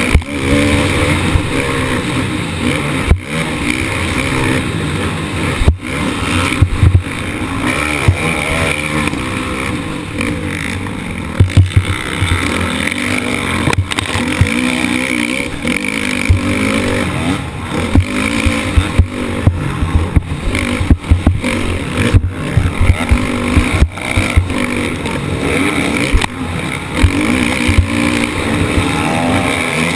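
Motocross bike's engine revving up and down through the gears, heard from an onboard action camera, with frequent sharp knocks and thuds.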